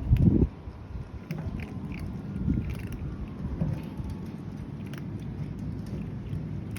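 A cat chewing and biting on food, with small scattered clicks over a steady low rumble. A loud low thump comes right at the start.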